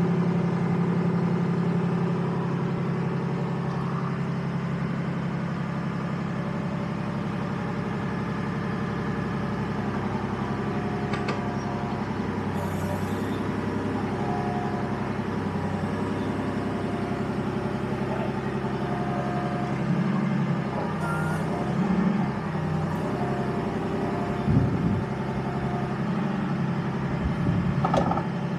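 M113 armoured vehicle's engine idling steadily, with a few short rises in level and pitch in the last several seconds.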